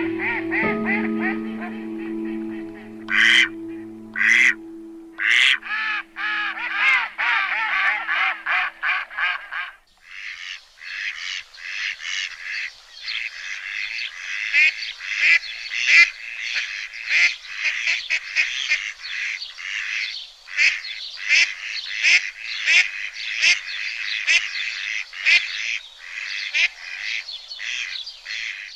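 Ducks quacking: many quick calls in a dense, overlapping chorus from about ten seconds in. Before that, music with held notes fades out under a few sharp calls and a rapid run of rising-and-falling calls.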